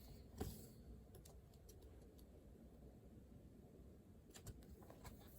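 Near silence in a small room, broken by a few faint, short clicks: one about half a second in, a few tiny ticks a second or so later, and a small cluster near the end.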